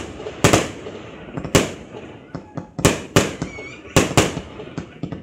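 Aerial fireworks going off: a string of sharp bangs, about seven in five seconds, each with a short echoing tail, with smaller crackles in between.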